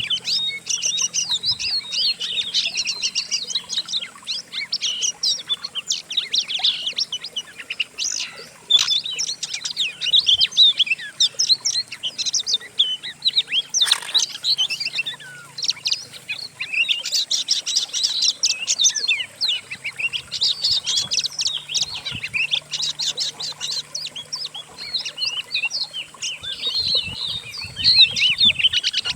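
Dense, continuous songbird chatter: rapid high chirps, whistles and trills from several bird species blended into one recorded medley, made to be played to a caged oriental magpie-robin as song to copy. A single sharp click comes about halfway through.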